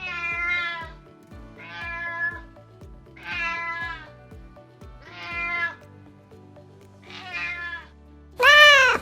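A cat meowing repeatedly, about one meow every second and a half, the last and loudest near the end, over background music with a steady beat.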